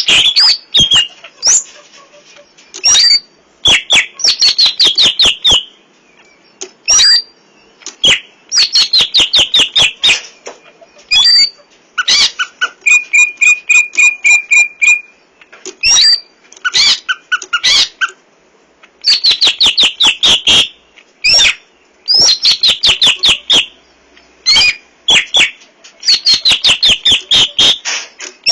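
Green leafbird (cucak ijo) singing loudly: runs of rapid, sharp whistled notes repeated every couple of seconds with short pauses, scattered sharp clicks, and about halfway through a steady buzzing trill held for some two seconds. The song is full of learned imitations of other birds.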